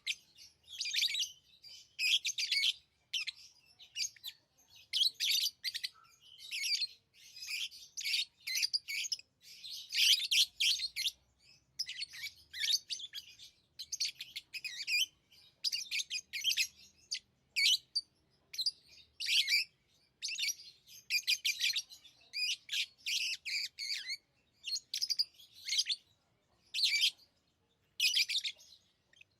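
Pet lovebirds chirping in a steady run of short, high-pitched bursts, one after another with brief pauses between.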